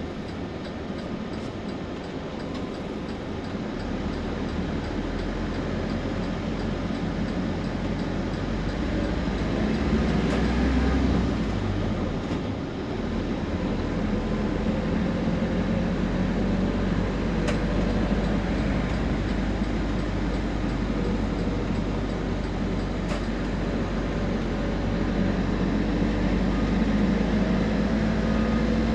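Temsa Prestij SX midibus on the move, its diesel engine and drivetrain running with a steady hum. The engine note swells about a third of the way in and again near the end, with a faint rising whine.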